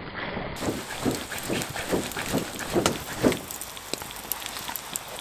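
Scrambled eggs being stirred in a pan over a campfire: a run of strokes, about two or three a second, that stops a little past three seconds in. Light crackling and sizzling ticks follow.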